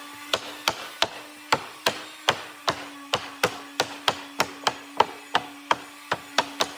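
Rapid, even knocks on wood, about three a second, like hammer or mallet blows, over a steady hum.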